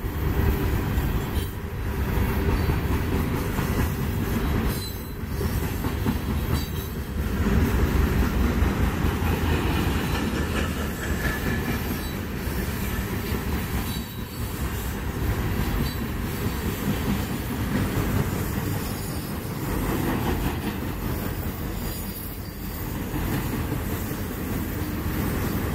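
Refrigerated boxcars of a freight train rolling past at speed: a steady rumble of steel wheels on the rails that dips briefly every few seconds as the cars go by.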